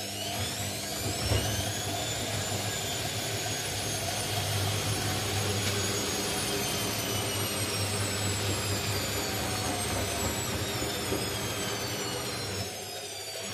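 Indesit mini washing machine on an unbalanced spin with bad drum bearings. A high motor whine rises over the first few seconds, holds, then slowly falls as the spin winds down, over a steady low rumble. There is one knock about a second in.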